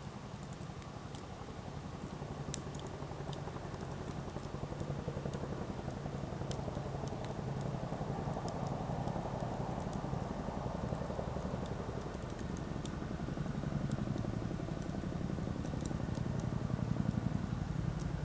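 Wood campfire burning, with scattered sharp pops and crackles over a steady low rumble.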